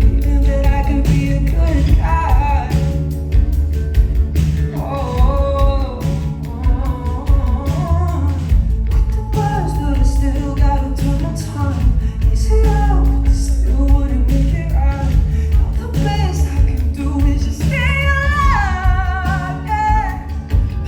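Live band playing a pop-rock song with a heavy, steady bass and drums, and a voice singing a melody over it that climbs to a high, wavering run near the end.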